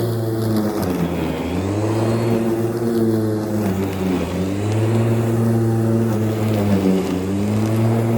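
Petrol lawn mower engine running steadily under load, its speed sagging and recovering three times as it works through the grass.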